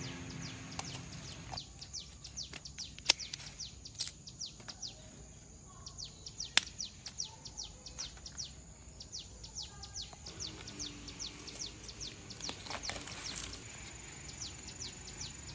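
Small birds chirping in rapid, high, falling notes, over a steady high insect whine. Two sharp snaps stand out, about three and six and a half seconds in.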